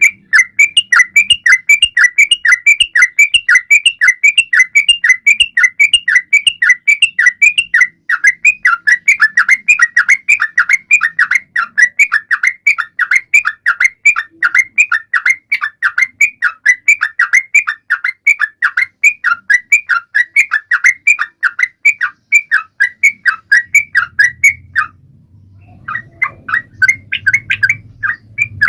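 Yellow-vented bulbul (trucukan) singing: a long, fast run of short repeated chirping notes, about three a second, that breaks off for a moment near the end and then starts again.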